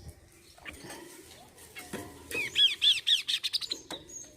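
A songbird calling: a few soft chirps, then about two seconds in a loud, quick run of arching notes that speeds up into a fast chatter and stops shortly before the end.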